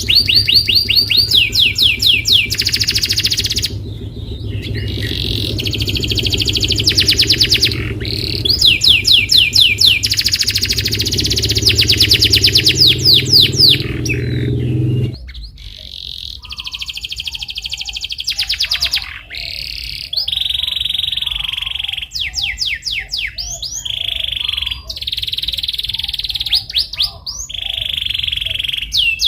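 Canary singing a long rolling song: runs of fast repeated sweeping notes and trills, broken by short pauses. A steady low hum sits under the song and stops about halfway through.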